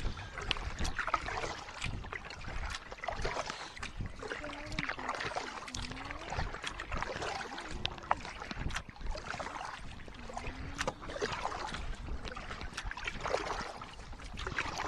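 Canoe paddling on flat calm water: paddle strokes splashing and dripping, with frequent short knocks and clicks.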